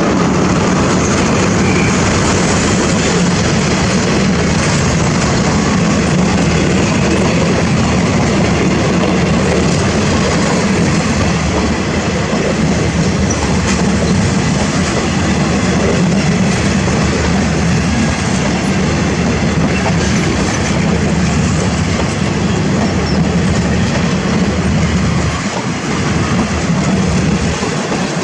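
Thai railway train running past on the track, its wheels clattering and rumbling steadily over the rails.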